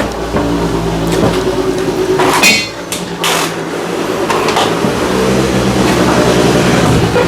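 Stick (arc) welding on a bus door frame: the welder's steady electric hum under a crackling hiss, with a few sharp metal knocks about two and a half and three and a half seconds in.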